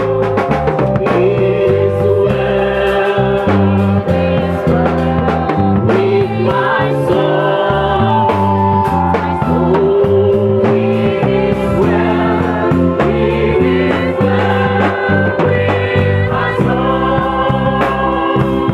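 Gospel music: a choir singing over a band, with a bass line changing notes every half second or so.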